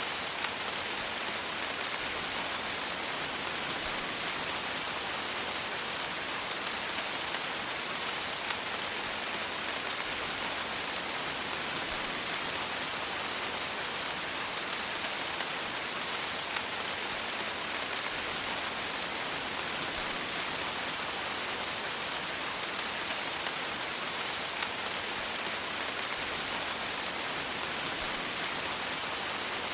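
Steady rain falling, a constant even hiss of many raindrops with faint patter on a surface.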